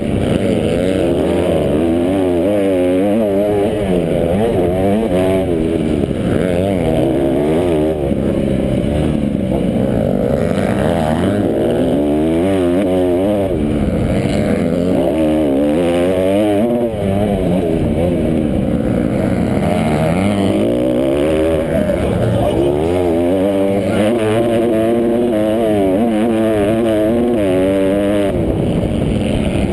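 Several motocross bikes racing at once, their engines revving up and dropping back over and over.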